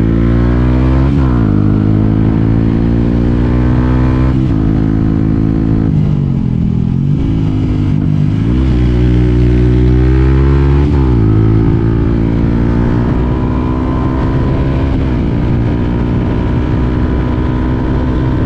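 Yamaha WR 125 X single-cylinder four-stroke engine pulling up through the gears: the engine note climbs, then drops back at each upshift, several times over. About six seconds in it falls away further before picking up and climbing again.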